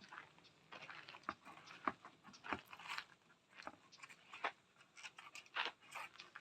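Puppies playing and chewing: faint, irregular small clicks, taps and crunches, a few a second.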